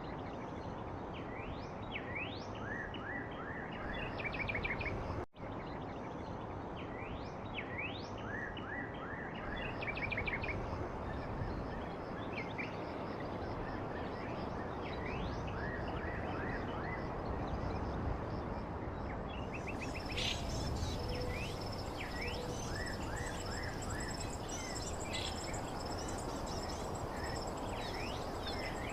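Outdoor nature ambience: birds chirping in repeated short rising calls over a steady background hiss. Insects join in with a high steady trill from about two-thirds of the way through, and there is a brief dropout about five seconds in.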